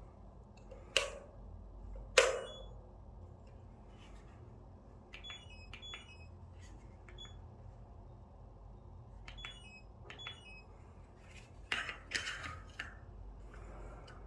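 Two sharp knocks, then several light clicks each followed by short electronic beeps at a few different pitches, and a cluster of clicks and knocks near the end.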